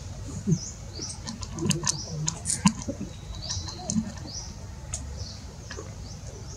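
Small birds chirping, short high upward-sweeping calls repeating every second or so, with scattered sharp clicks and crackles through the middle.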